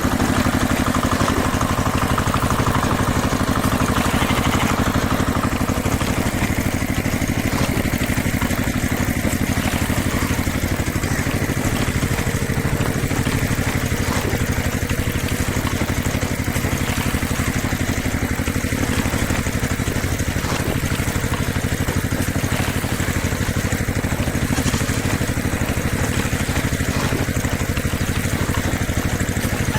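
An engine idling steadily, with an even low pulse.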